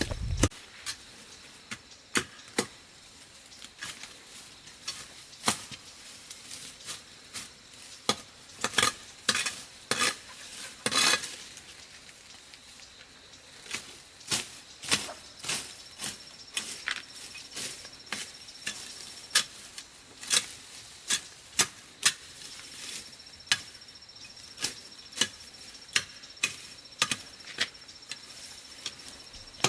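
Irregular sharp clicks and knocks, one or two a second and bunched more closely about a third of the way in. A faint steady high tone comes in past the halfway point, breaks off for a few seconds, then returns.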